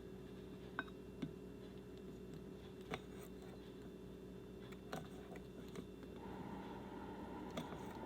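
Asparagus being cut into small pieces: a handful of sharp, irregular cutting clicks over a steady low hum, with a steady higher tone joining the hum about six seconds in.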